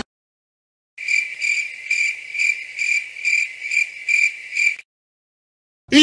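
Cricket chirping sound effect: a steady high trill pulsing about twice a second for roughly four seconds. Just before the end, a loud shouted 'yeet' sound effect begins.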